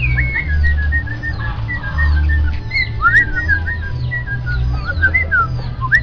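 Caged songbirds whistling a run of short, clear notes and quick rising and falling chirps, over a low, pulsing bass sound.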